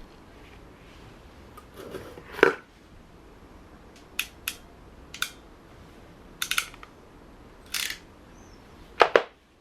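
Crimping tool squeezing spade connectors onto thin pump wires: about eight short, irregularly spaced sharp clicks, the loudest about two and a half seconds in and near the end.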